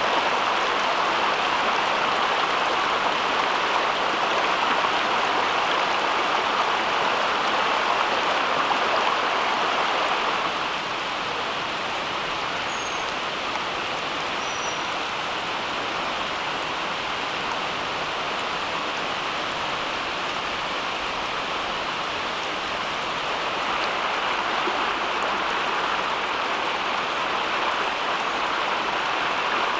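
Steady rushing noise of water, without a beat or pitch; it eases slightly about ten seconds in and grows a little again near the end.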